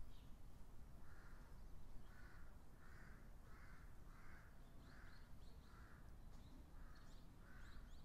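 A bird faintly calling a series of short repeated notes, roughly one or two a second, with a few faint higher chirps near the end.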